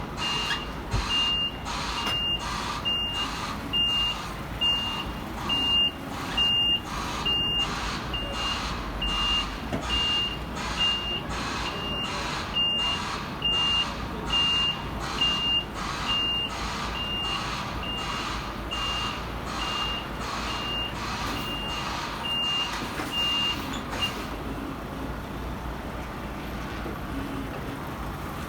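A truck's reversing alarm beeps steadily, about one and a half beeps a second, over the low running of its engine. The beeping stops near the end, leaving the engine alone.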